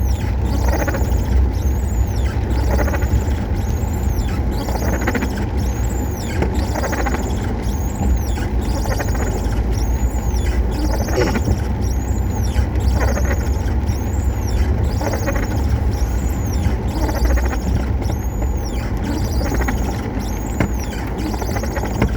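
Road vehicle driving: a steady low rumble with road and wind noise, and a faint high squeak that repeats about once a second.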